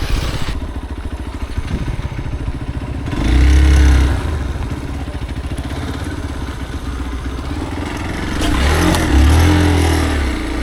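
Motorcycle engine running and revving up twice, once about three seconds in and again near the end, each time rising and then falling in pitch.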